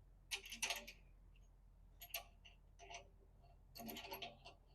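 Faint, scattered clicks and clinks of small metal hardware being handled: bolts, fender washers and lock washers for a loader-bucket tooth bar.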